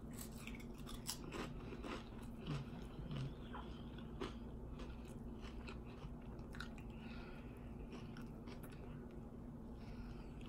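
Plain crinkle-cut potato chips being bitten and chewed, with a dense run of sharp crisp crackles over the first four seconds or so. After that the crackles thin out into softer chewing of a hot sausage in a bun.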